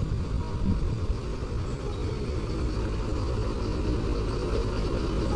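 Vehicle engine running steadily at idle, a low even rumble.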